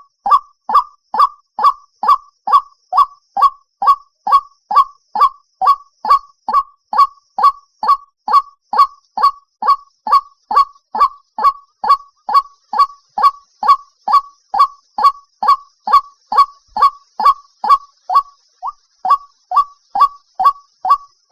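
White-breasted waterhen calling one short note over and over, about two calls a second with barely a pause, with a brief hitch about three seconds before the end.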